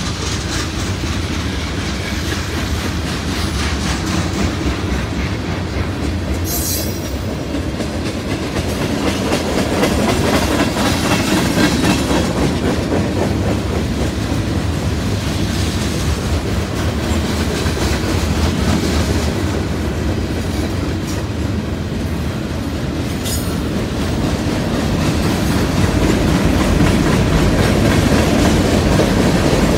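Freight cars rolling past: a steady rumble with wheels clicking over rail joints, and a brief high screech twice.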